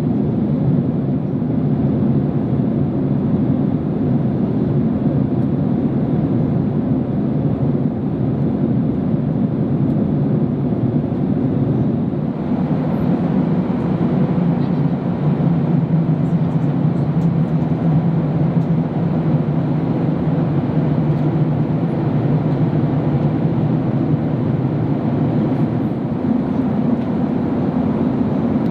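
Steady low drone of a Boeing 767-300 airliner heard inside the economy cabin: the engines and airflow running without a break. The hiss brightens slightly about twelve seconds in.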